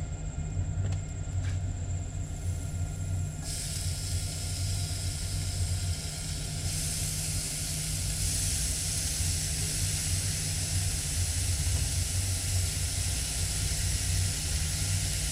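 Food sizzling in a skillet over a propane stove burner, a steady hiss over a low rumble, the sizzle growing louder about three and a half seconds in and again about seven seconds in.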